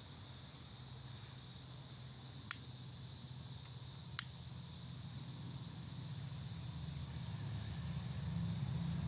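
Steady high-pitched insect chorus, crickets or similar, with two sharp clicks a couple of seconds apart and a low hum that grows louder toward the end.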